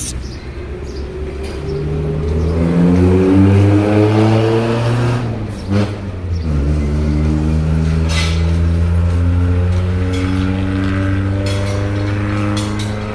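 A motor vehicle's engine speeding up with a rising pitch, a short break about six seconds in, then running steadily at a lower pitch.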